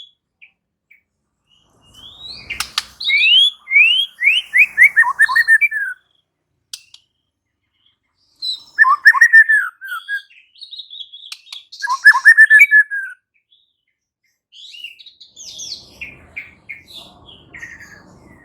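White-rumped shama (murai batu) singing in loud phrases separated by pauses. There is a fast run of descending whistled notes a couple of seconds in, then two shorter rich phrases around the middle, then quieter twittering near the end. A sharp click sounds just before the first phrase.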